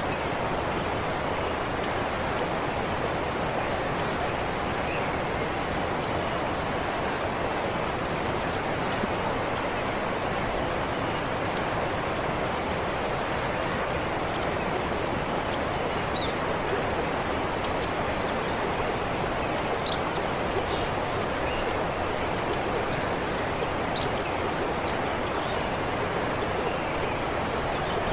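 Forest stream flowing steadily, with birds chirping in short, high, downward-sweeping notes repeated throughout.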